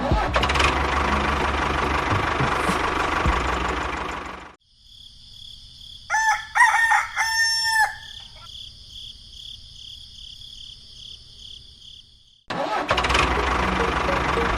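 A small engine runs with a dense, rattling noise and cuts off abruptly about four seconds in. A rooster then crows once over a steady high-pitched buzz, and the engine noise cuts back in near the end.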